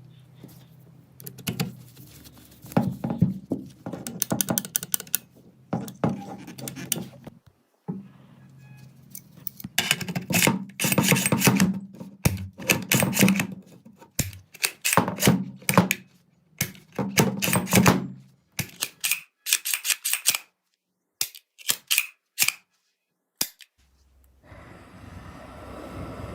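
Rapid clusters of metallic clicks and knocks, like small steel gun parts being worked and fitted, over a low hum. The clicks thin out to a few single ones, and near the end a steady wind-like rush takes over.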